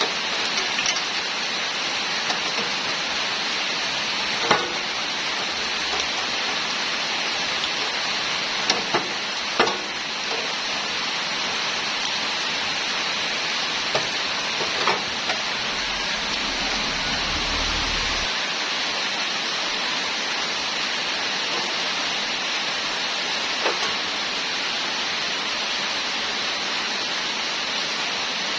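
Steady hissing noise, with a few short sharp knocks scattered through it.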